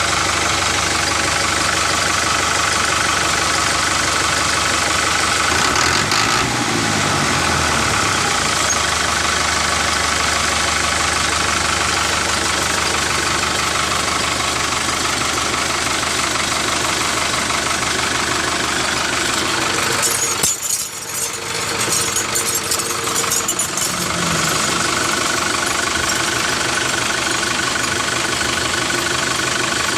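An engine running steadily, with a short drop in level about two-thirds of the way through and a brief change in pitch a few seconds in.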